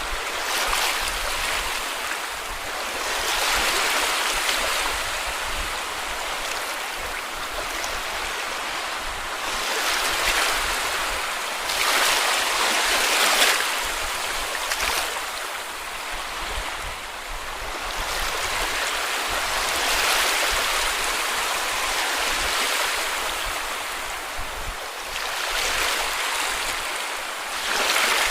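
Sea waves breaking and washing up on a beach, the rush of surf swelling and easing every few seconds.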